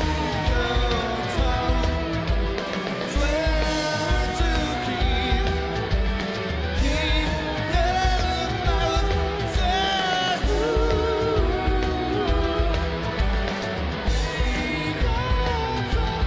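Live rock band playing a song: a male lead vocal sings over a steady drum beat, bass and guitars.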